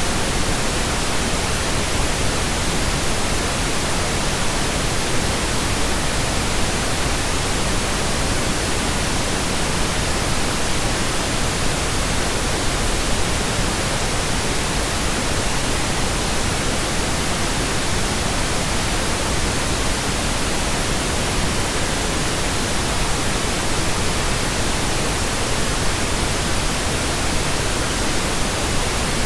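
Steady, continuous pink noise generated in Audacity: an even hiss with no changes.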